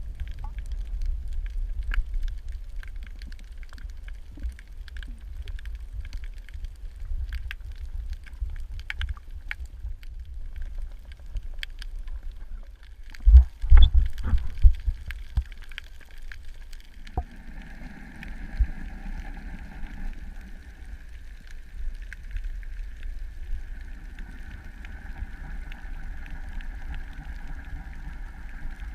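Sound recorded underwater: a constant low rumble of water against the microphone, sprinkled with fine crackling clicks. A loud rumbling burst comes about halfway through, and from about two-thirds of the way in a steady droning hum joins it.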